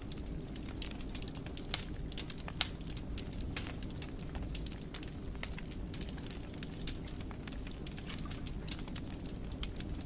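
Wood fire burning in a fireplace: a steady low rumble of flames with many scattered crackles and a few louder pops.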